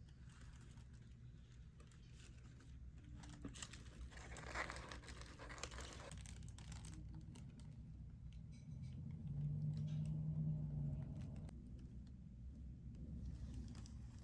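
Faint rustling and crinkling handling noise, loudest for a few seconds around a third of the way in, with a brief low hum a little past the middle.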